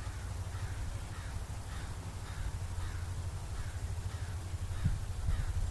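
A bird calling over and over, about two short harsh calls a second, over a low rumble like wind on the microphone, with one low bump about five seconds in.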